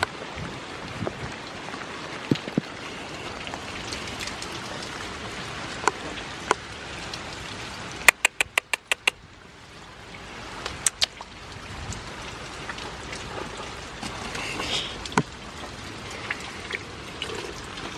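Steady rain falling, with scattered sharp drop ticks. About eight seconds in comes a quick run of about seven sharp clicks, roughly seven a second.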